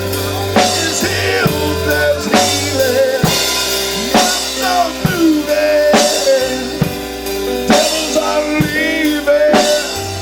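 Live gospel music: a drum kit keeps a slow, steady beat of kick, snare and cymbal, under held chords and a gliding, wavering melody line.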